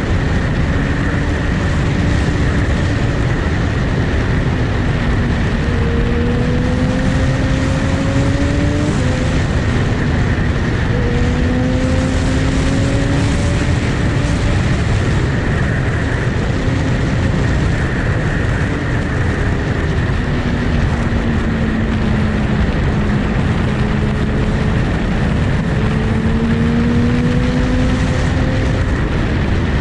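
Motorcycle engine running on the move under a steady rush of wind noise, its pitch slowly rising and falling and dropping sharply about nine seconds in, as with a gear change.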